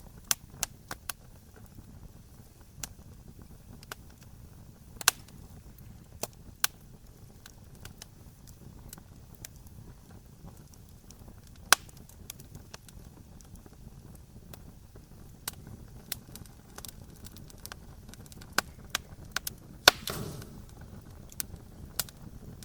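Wood campfire crackling: irregular sharp pops and snaps over a low, steady rumble of flame, with a louder pop and a brief rush of sound near the end.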